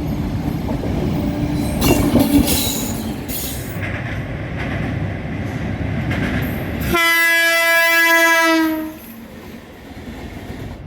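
Indian Railways train running past: heavy rumble and clatter of wheels on the rails, with squealing bursts about two to three seconds in. About seven seconds in, the sound changes abruptly to a train horn held for about two seconds on one steady note, dipping slightly in pitch as it ends.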